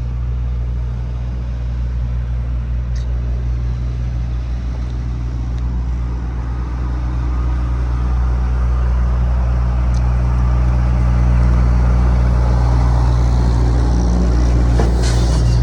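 Steady low hum of an idling car engine, swelling slightly about halfway through, with a few faint clicks and a brief rustle near the end.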